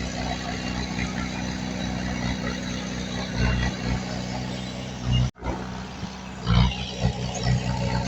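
Diesel engine of heavy earthmoving equipment running steadily, with a few short surges in power. The sound drops out for an instant about five seconds in.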